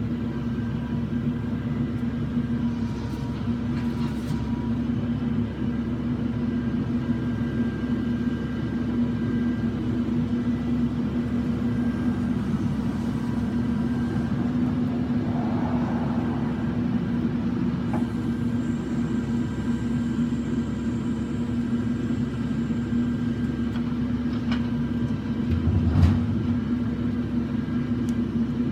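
Claw truck's engine running steadily with a low, even hum, and one louder thump near the end.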